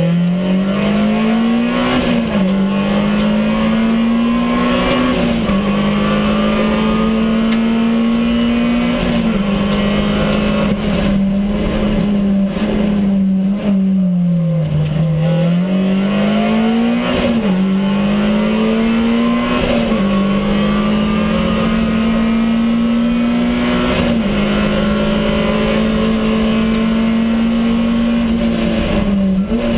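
Peugeot 106 S16 Group A rally car's 1.6-litre 16-valve four-cylinder engine at high revs, heard from inside the cabin. Its pitch holds high with a sudden drop at each of several gear changes, and about halfway through it falls away and then climbs back up through the gears.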